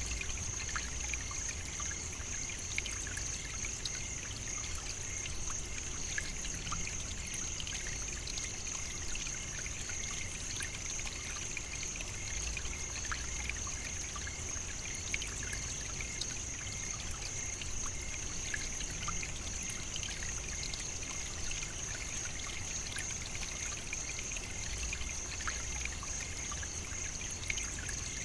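African savannah ambience: a steady high-pitched drone over a continuous trickling, water-like hiss, with scattered faint ticks and a low rumble underneath.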